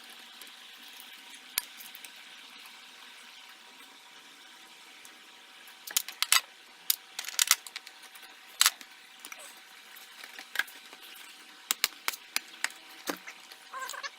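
Scattered clicks and knocks of plastic and metal parts being handled while the air cleaner is taken off a Jaguar XJ8's engine, over a faint steady hiss. The engine is not running.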